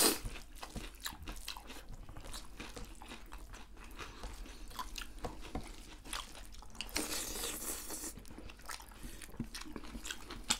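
Close-up eating sounds of two people chewing and crunching a meal of rice and deep-fried goat meat by hand: many small wet clicks and crunches, with a short denser rustling crackle about seven seconds in.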